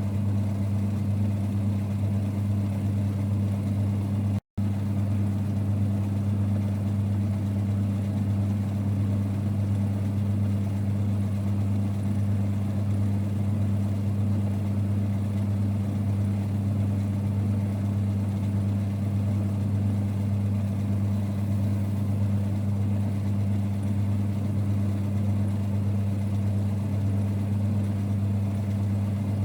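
A 1946 Boxford lathe running steadily with a low, even hum, cutting out for an instant about four and a half seconds in.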